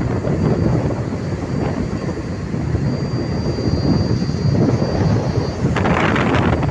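Strong wind buffeting the microphone, a heavy, steady low rumble with a brighter rush joining near the end.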